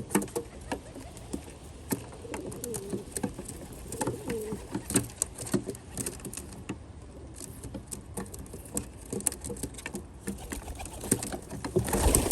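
Rock doves (common pigeons) cooing in low, wavering calls, with many sharp taps of beaks pecking at nuts and seeds on a feeding platform. A sudden loud low whoosh comes right at the very end.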